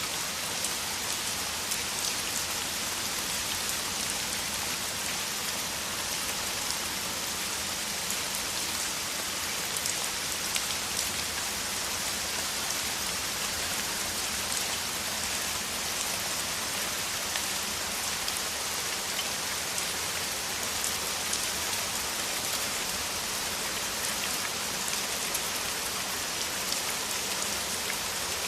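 Heavy rain falling steadily, a dense even hiss of drops with fine patters.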